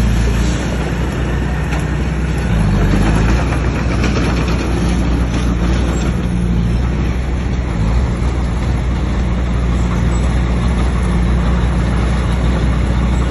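Heavy diesel engine of earth-moving machinery running steadily under load, its pitch shifting slightly a few seconds in.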